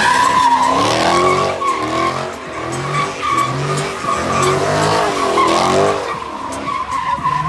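A car spinning its tyres in a drift or donuts: a steady, loud tyre squeal, with the engine revving up and down again and again.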